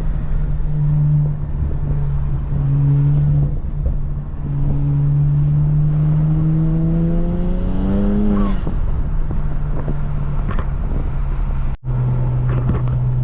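BMW 335i's N54 twin-turbo inline-six running while driving, heard from inside the car. About halfway in the engine note rises steadily in pitch over some four seconds under acceleration, then falls back and settles to a steady drone.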